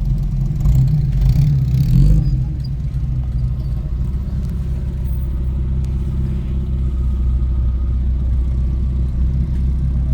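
Car engine running at low speed with a steady low rumble, swelling louder for the first two seconds, then settling.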